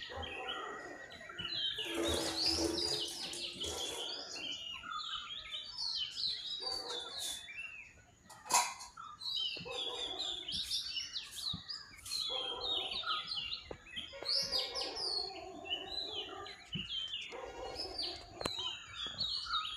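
Many small birds chirping and twittering, with lower warbling calls coming and going. A brief noisy rustle about two seconds in and a single sharp knock about eight and a half seconds in.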